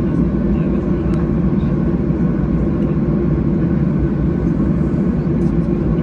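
Steady low rumble heard inside the cabin of a Boeing 737-800, from its CFM56 jet engines and the airflow, with no change in level.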